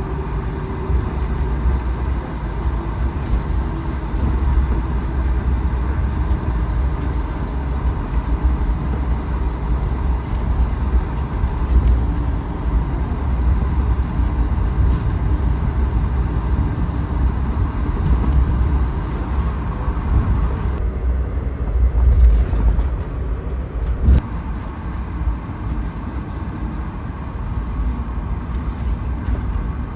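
Cabin noise of an Airbus A220-300 rolling on the ground: a steady deep rumble from its Pratt & Whitney PW1500G engines at low power and the wheels on the taxiway, with one sharp knock about 24 seconds in.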